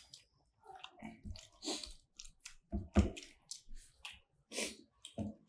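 Close-up chewing of chow mein noodles and omelette, with irregular short wet mouth noises. One louder thump comes about three seconds in.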